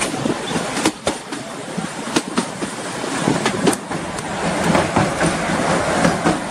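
Narrow-gauge (2 ft) train coach running on its track: wheels clattering over the rails with irregular sharp clicks over a steady rumble. It grows a little louder about four and a half seconds in, as the coach rolls onto a river bridge.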